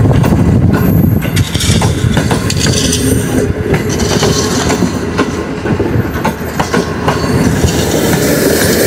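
Green Line Express passenger coaches rolling past at close range, their steel wheels clacking over the rail joints in a steady run of clicks.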